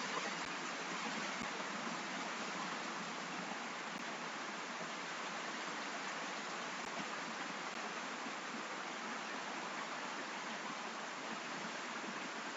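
Steady rain, an even hiss with no single drops or other sounds standing out.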